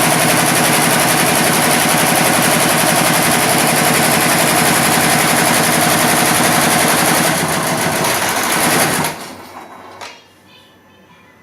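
Computerized embroidery machine stitching at high speed, a loud rapid mechanical rattle that stops about nine seconds in, followed by a single sharp click.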